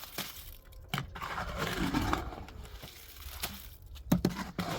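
Irregular knocks and crunching scrapes of objects being handled, with a quick run of three sharp knocks near the end.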